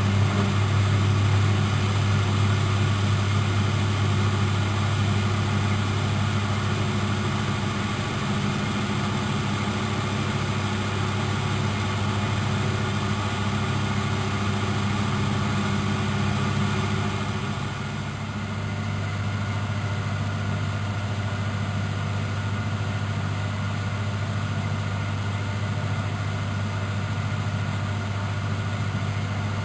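Miele Professional WS 5105-C washing machine running with a steady motor hum. The hum eases a little about two-thirds of the way through, then holds steady.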